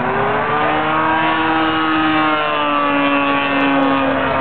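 DLE-30 30cc single-cylinder two-stroke gas engine of an RC aerobatic plane in flight, turning an 18x8 wooden propeller. Its pitch rises in the first second, then slowly falls.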